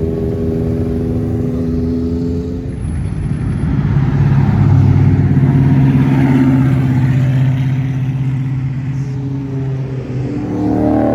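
Classic car engines running as cars cruise past on the street. One gets louder about four seconds in, a deep, steady engine note that holds for several seconds before easing off.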